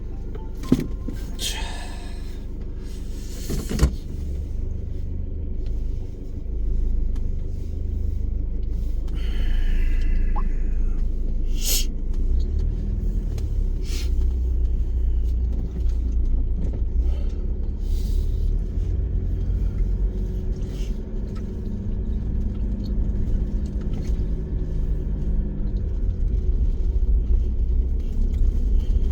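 Car being driven, heard from inside the cabin: a steady low road and engine rumble, with a few short knocks and rattles over bumps.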